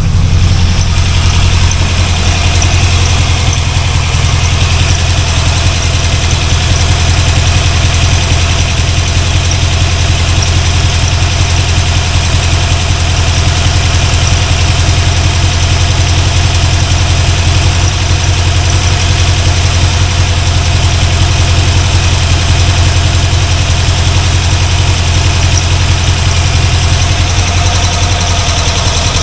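Freshly rebuilt 350 small-block V8 of a C4 Corvette running steadily at idle, with no rod knock, fuel pressure just back after dropping out.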